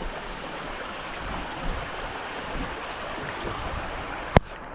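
Heavy rain falling steadily as an even hiss, with one sharp click near the end.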